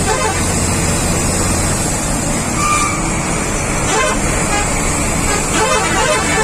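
Heavy truck running with a steady engine drone and road noise, and a short horn toot about two and a half seconds in.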